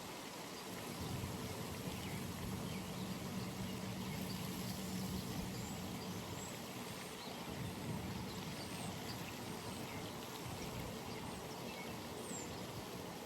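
Early-morning pond ambience: a steady outdoor hush with faint, scattered high bird chirps, and a low, even hum through the first half that fades out about six seconds in.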